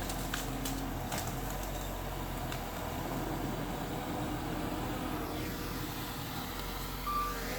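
Diesel engine of heavy earthmoving machinery running steadily, with a few light clicks in the first couple of seconds and a short high tone near the end.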